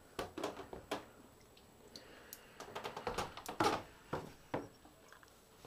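Irregular sharp taps and knocks, a dozen or so, bunched most thickly about three to four and a half seconds in.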